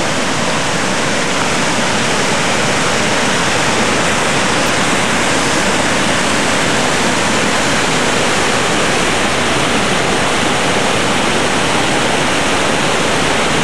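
Floodwater of a swollen stream rushing steadily and loudly, a continuous dense roar of turbulent water in flash-flood spate.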